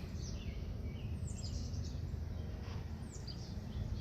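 Steady low rumble in the background, with birds chirping several times in short falling notes.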